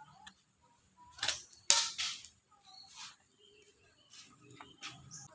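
Wooden slingshot being shot: sharp cracks of the band release and the shot striking, a cluster of them about a second and a half in with the loudest in the middle, then a few fainter clicks.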